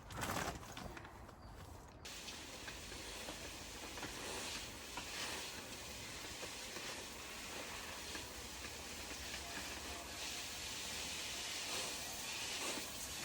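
Steady outdoor hiss, like wind or rustling, that sets in abruptly about two seconds in, as at a cut.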